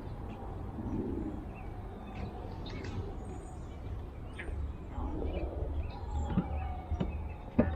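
Outdoor city-park ambience: a steady low rumble of traffic with scattered bird chirps. In the second half a faint siren wail falls slowly, and a few sharp knocks come near the end, the last one the loudest.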